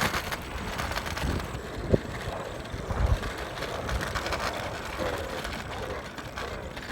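Electric rental scooter rolling along a road: steady tyre and road noise, with a couple of short knocks about two and three seconds in.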